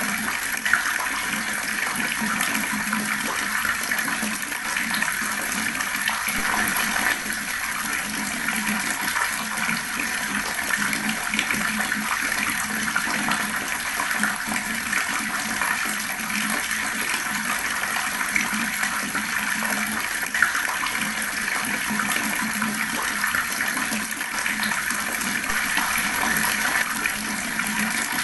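Water flowing fast in a steady, unbroken rush.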